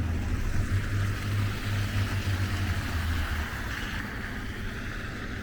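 Street traffic: a vehicle's low engine rumble that fades out about three and a half seconds in, over a steady hiss.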